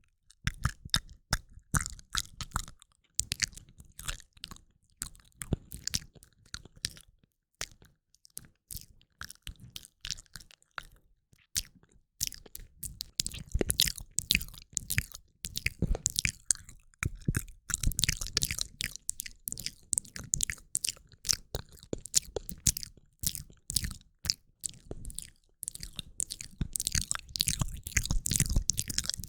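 ASMR mouth sounds close to the microphone: a quick, uneven run of wet clicks and smacks of lips and tongue, busier in the second half.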